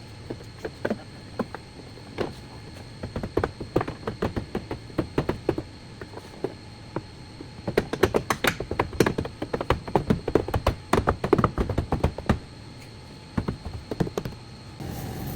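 Irregular series of sharp taps and knocks, hard objects striking one another during car body repair work, coming thickest in a quick flurry between about eight and twelve seconds in.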